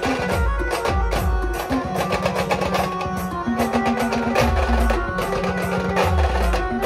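Live band music with fast, dense drumming and heavy low drum beats, and a held melody line over them.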